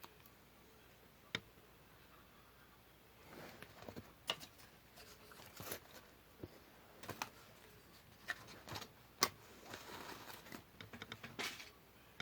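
Paper and small craft tools handled close to the microphone: a single sharp click a little over a second in, then irregular clicks and rustles from about three seconds in.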